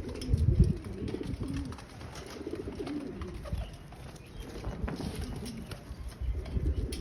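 Pigeons cooing, low repeated coos, loudest about half a second in.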